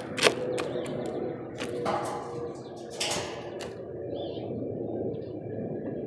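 A bird at a feeder making sharp clicks and knocks, several in the first three seconds, over a steady outdoor hiss, followed by a few faint short high calls.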